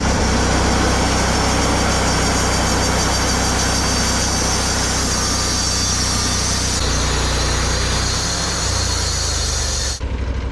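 Engine-driven sawmill cutting through a log: the engine runs under load beneath a loud hiss of the blade in the wood. Near the end the cutting noise stops suddenly as the blade leaves the cut, and only the engine is left running.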